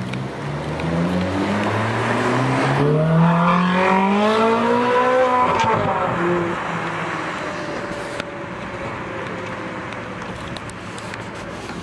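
Ferrari 458 Speciale's flat-plane V8 through a Capristo aftermarket exhaust, revving slowly up for about five seconds, then dropping back and running steadily at a lower speed. There is a single click about eight seconds in.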